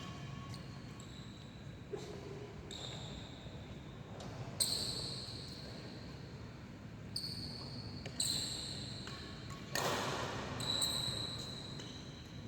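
Badminton rally: rackets striking the shuttlecock and court shoes squeaking in short, high squeals several times, with the loudest, sharpest hit about ten seconds in.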